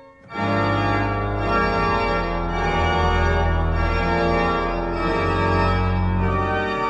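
Sanctuary organ playing sustained full chords over deep pedal bass notes, the chords changing every second or so; it comes back in after a brief break about a third of a second in.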